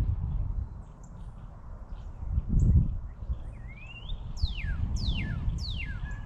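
A songbird singing clear whistles: one rising slur, then three quick steeply down-slurred whistles in a row. A brief low rumble swells about halfway through.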